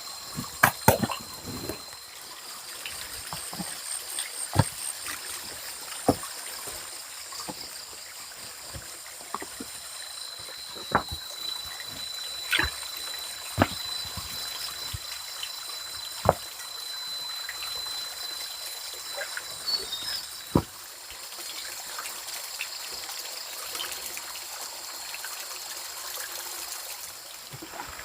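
Water trickling and running steadily, with scattered sharp knocks every second or two and a steady high-pitched whine above it.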